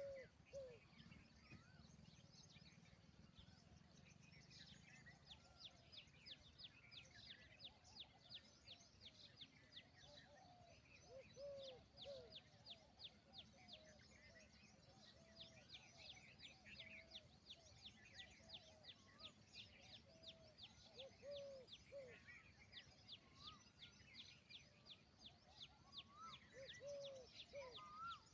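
Indian peahen (peafowl) giving short, repeated arched calls, faint, with a dense fast high chirping going on behind them for most of the time.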